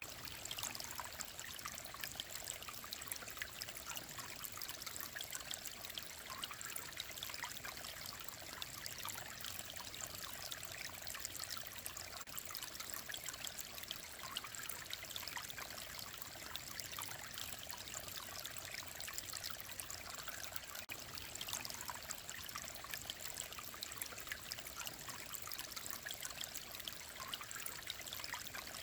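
Clear mountain stream running over rocks: a steady trickling and babbling of water, mostly high and bright, without let-up.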